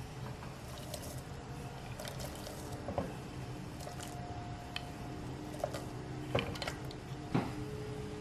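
Soft liquid sounds of small-scale kitchen handling, squishing and dripping, over a steady low hum, with three light knocks: one about three seconds in and two near the end.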